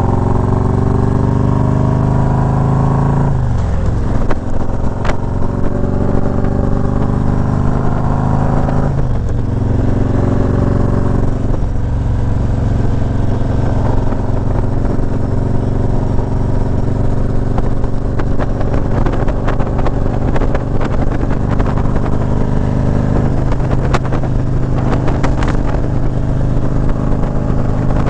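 Motorcycle engine accelerating. Its pitch climbs and drops sharply at gear changes about 3.5, 9 and 11.5 seconds in, then holds steady at cruising speed, with road and wind noise throughout.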